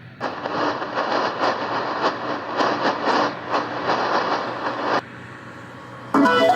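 Shortwave receiver hiss and crackling static, swelling and fading, as it is tuned between stations. The noise cuts out about five seconds in, and music from the next station comes in near the end.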